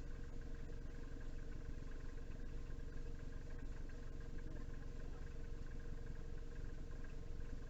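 Vehicle engine idling: a steady low rumble with a constant hum over it.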